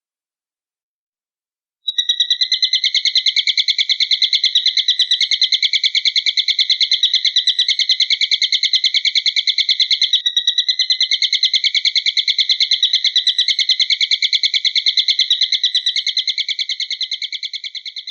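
Eagle call: a high, very rapid, even trill that starts about two seconds in and runs on, with a brief break about ten seconds in and fading near the end.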